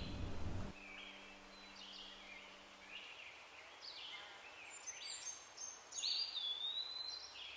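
Birds calling in a forest: a scatter of short chirps and whistled phrases, one a clear whistle that slides down and then holds, over a soft steady hiss of outdoor ambience. A louder low sound cuts off in the first second, and a faint low hum stops about three seconds in.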